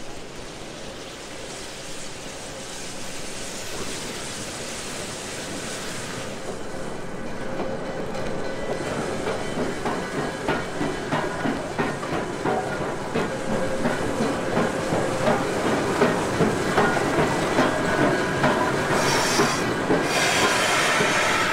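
Steam-hauled train drawing closer and growing louder, with a regular clatter of wheels over rail joints about twice a second through the middle and latter part, and a rush of hiss near the end.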